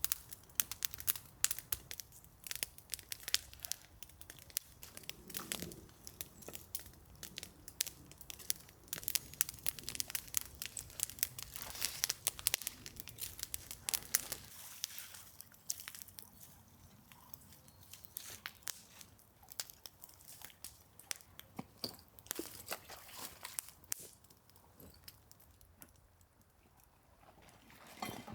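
Freshly lit wood campfire of fatwood, twigs and larger sticks crackling with many sharp pops and snaps as it catches and draws well. The crackling is busiest in the first half and thins out in the second.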